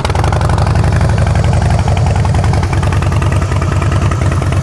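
Harley-Davidson Softail Rocker's 96-cubic-inch V-twin, fitted with Vance & Hines exhausts, idling steadily just after being fired up.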